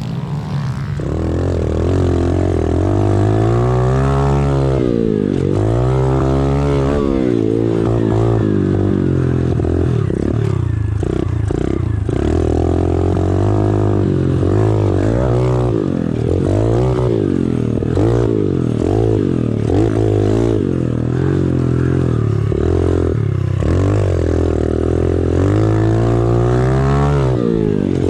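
Small single-cylinder four-stroke pit bike engine being ridden hard, revving up and dropping back again and again as the throttle is opened and shut every second or two.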